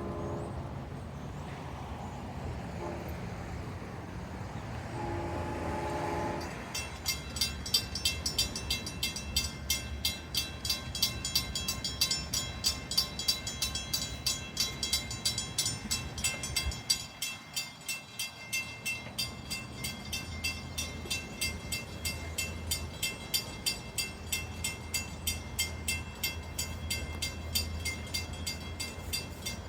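Long Island Rail Road train horn sounding at the start and again briefly about five seconds in, then a grade-crossing warning bell ringing with rapid, evenly spaced strikes for the rest of the time.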